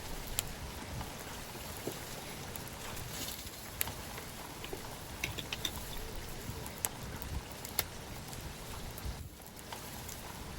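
Wood bonfire burning: a steady low hiss of the flames with scattered sharp crackles and pops from the burning wood, a few of them louder.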